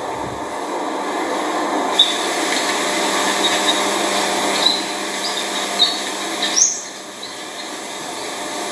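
A few short, high bird chirps, one of them rising, over a steady hiss.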